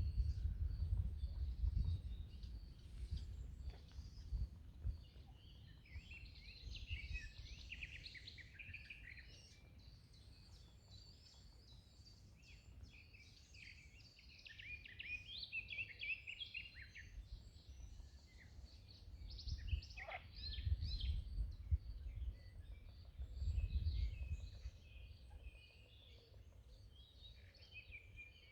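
Pond ambience: two stretches of high, rapid chirping calls, over a low rumble that swells at the start and twice near the end.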